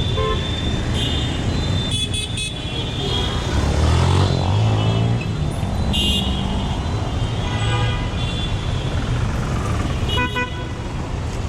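Heavy city road traffic: engines running, with vehicle horns honking again and again. A louder vehicle passes close about four seconds in.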